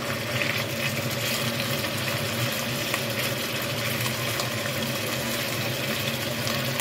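Stuffed chicken wings frying in a pan, a steady sizzle with a low, steady hum beneath it.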